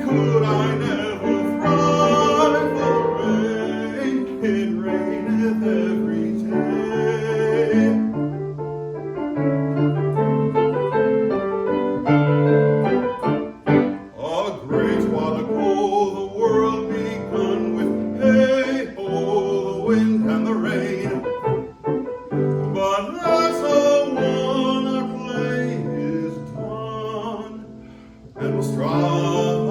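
Baritone singing a lively, rollicking English art song in a classical style, with piano accompaniment. The piano plays on its own briefly near the end before the voice comes back in.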